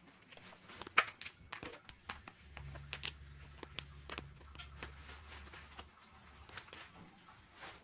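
Norwegian Forest kitten eating, with scattered light clicks and taps. A low steady hum comes in about two seconds in and stops about six seconds in.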